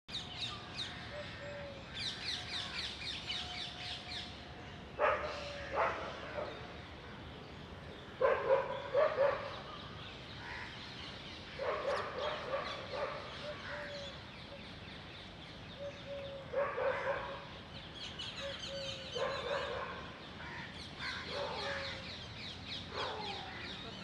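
Birds calling in the trees: rapid strings of short, high chattering notes throughout, broken every few seconds by louder, lower harsh calls in short clusters.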